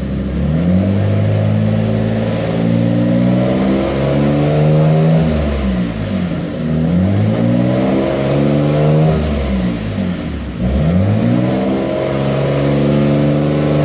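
Dodge Stealth's 3.0-litre V6 revved repeatedly: the engine speed rises and holds, falls back to idle about five seconds in and again about ten seconds in, then rises again. The owner can't say what is wrong with its running and wonders if junk in the fuel tank could be the cause.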